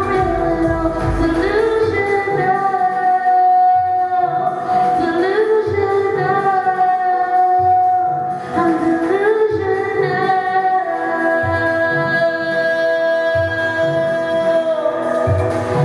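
A singer holding long sung notes with no clear words, each one swooping up into pitch, over an electronic pop backing track with a low, pulsing bass beat.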